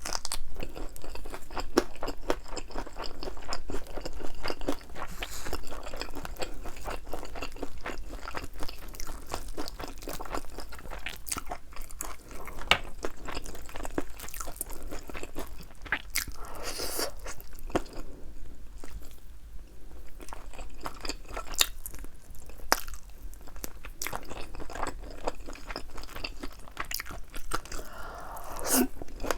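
Close-miked crunching, biting and chewing of crispy, thin-battered Korean fried chicken wings, a steady stream of crackly bites.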